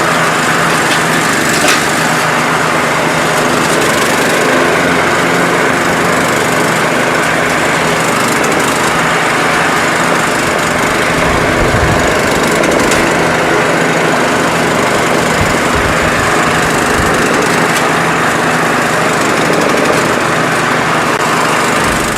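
Riding lawn tractor's small engine running steadily under way.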